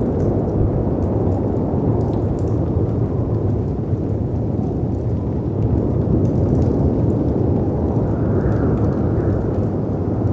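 Layered storm ambience: a steady deep rumble of wind and sea waves, with faint fireplace crackles scattered through and a gust of wind swelling briefly about eight seconds in.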